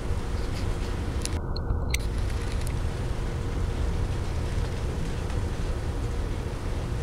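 Freight train cars rolling past close by: a steady rumble of steel wheels on the rails, with a few faint clicks.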